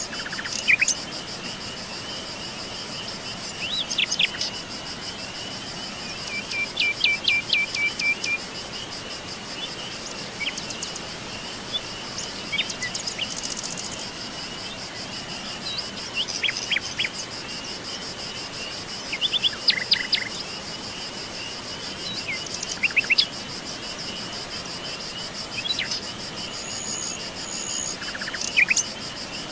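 Wild birds chirping in short bursts every few seconds, one giving a brief steady trill, over a continuous high-pitched insect trill.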